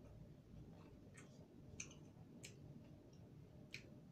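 Near silence with four faint, short mouth clicks from chewing food, spaced about half a second to a second apart.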